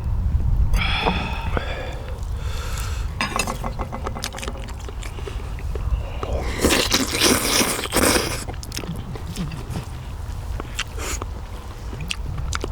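Someone eating pork bone soup: utensils clinking against the dish, with biting and chewing, over a steady low rumble. A longer noisy stretch of about two seconds comes in the middle.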